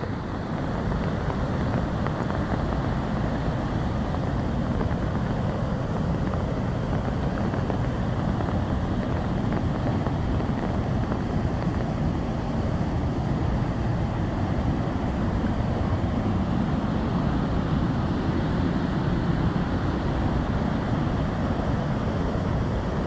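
Waterfall plunging, an unbroken rushing roar that stays steady throughout.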